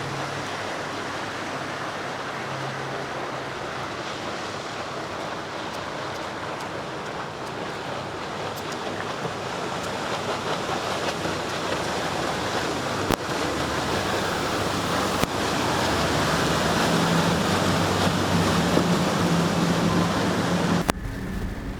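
Steady rush of breaking surf and wind. The low hum of a boat's engines grows louder over the last several seconds, then the sound changes abruptly near the end.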